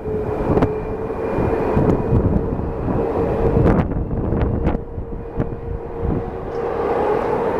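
Airbus A321neo jet engines (CFM LEAP-1A turbofans) at takeoff power: a steady rumble with a held hum, with wind noise on the microphone and several sharp clicks.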